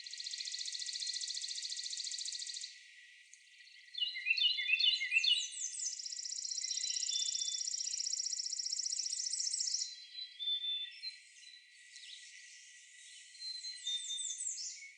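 Two long, fast, dry songbird trills, the first about two and a half seconds long and the second, higher one about four seconds, with short sets of notes from other songbirds between them and near the end.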